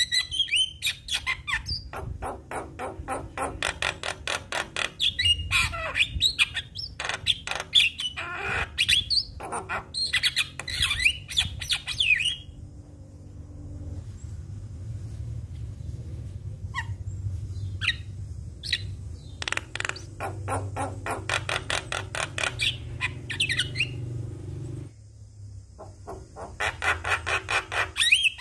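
Javan myna singing: rapid, harsh chattering rattles mixed with short whistled notes. The song thins out about halfway through to a few sharp calls, then the chattering returns. A low steady hum runs underneath.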